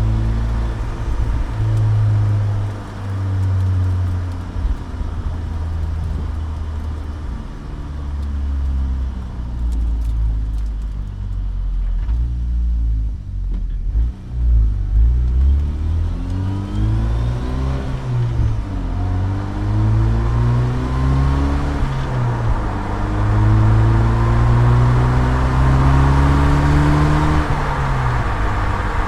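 2007 Saturn Sky Redline's turbocharged 2.0-litre four-cylinder on factory intake and exhaust, accelerating through the gears while driving: the engine note climbs and drops repeatedly with shifts and lifts off the throttle. A faint higher whistle rises along with it at times.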